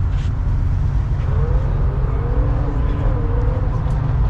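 Straight-piped, Procharged 5.4 V8 of a New Edge Mustang GT running at low revs, a deep, steady, pulsing exhaust rumble.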